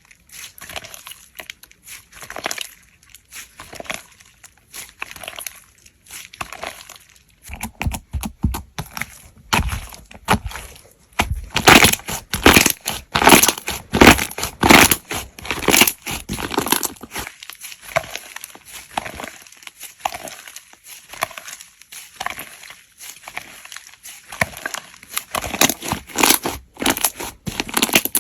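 Slime being squeezed and pressed by hand, making irregular sticky crackles and pops that are busiest and loudest for a few seconds around the middle.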